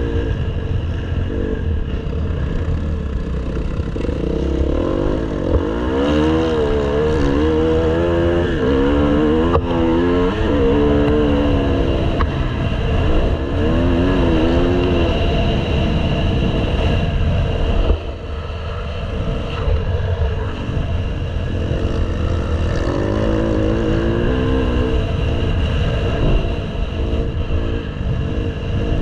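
Motocross motorcycle engine running hard, its pitch repeatedly rising and falling as the throttle opens and closes, over a heavy low rumble. The engine briefly drops off about eighteen seconds in.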